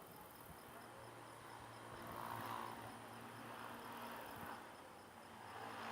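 Faint night ambience of insects chirping in an even, steady pulse, over a low steady hum, with a soft higher sound swelling briefly about two seconds in.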